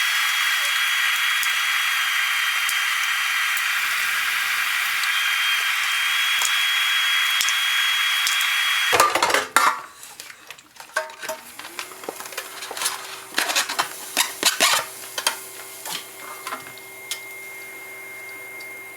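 Kitchen food-prep sounds. A loud, steady rushing hiss runs for about nine seconds and cuts off suddenly. Then come scattered short knocks and clicks of utensils and dishes being handled, over a low, steady appliance hum that starts a couple of seconds later.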